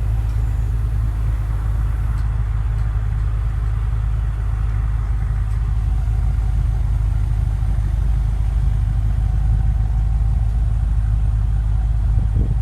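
BMW M5 (F10)'s twin-turbo V8 idling steadily, a low even rumble.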